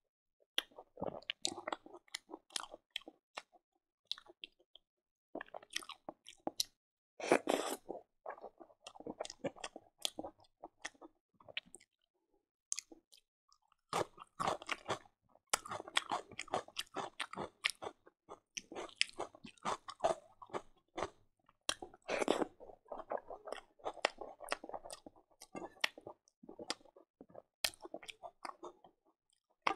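Close-miked chewing of a mouthful of rice, greens and fried silkworm larvae, with crisp crunches and wet mouth clicks in irregular bursts and a pause of a second or two midway.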